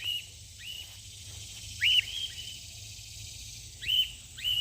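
Cockatiels giving short rising contact calls, about six in a few seconds, the loudest about two seconds in.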